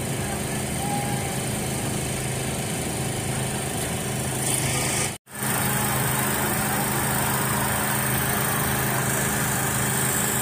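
Steady drone of idling car engines amid general outdoor crowd and traffic noise. The sound cuts out abruptly for an instant about halfway through, then carries on.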